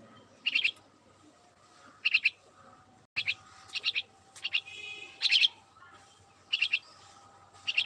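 A small bird chirping: short bursts of three or four quick notes, repeated about every second.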